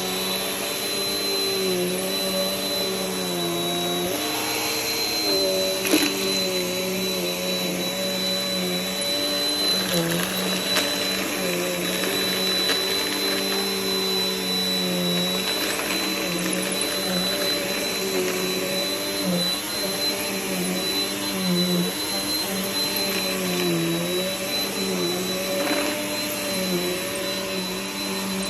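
Vacuum cleaner running continuously, with a steady high whine over a motor tone that dips and recovers every second or two as the load on it changes.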